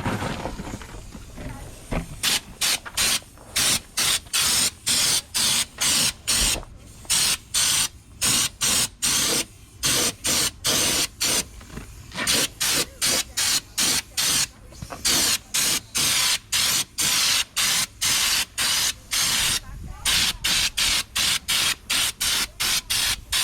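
Compressed-air spray gun applying Raptor bed liner, firing in short hissing bursts about two a second, starting about two seconds in.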